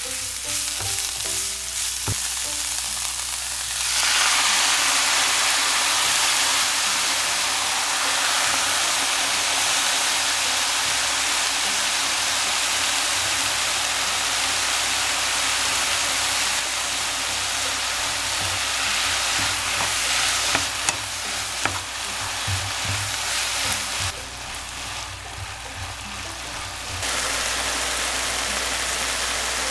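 Julienned burdock root sizzling and being stirred in a hot oiled frying pan with a wooden spatula. About four seconds in, the sizzle jumps louder and stays loud as the soy sauce and rice wine hit the hot pan.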